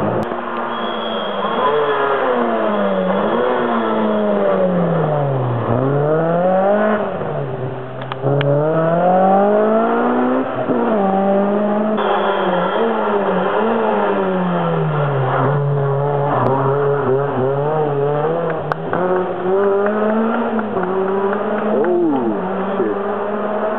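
Racing car engine revving hard, its pitch climbing and dropping over and over as the driver works the throttle and gears through a slide.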